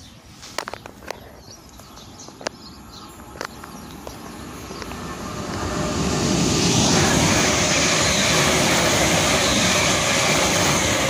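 London Northwestern Railway passenger train running through the station alongside the platform: the rush of the train on the rails builds from about four seconds in and is loud and steady from about six seconds on. A few sharp clicks sound in the first few seconds.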